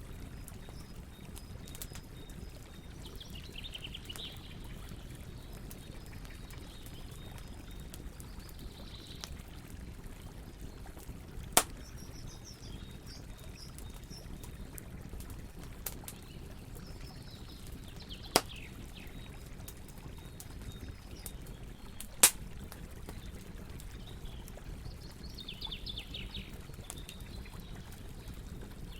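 Wood campfire crackling over a steady low hiss, with three loud sharp pops a few seconds apart past the middle. Birds chirp briefly in the background several times.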